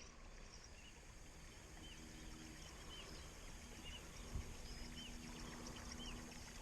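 Faint dawn outdoor ambience: a bird repeating a short chirp about once a second, over a faint steady low hum.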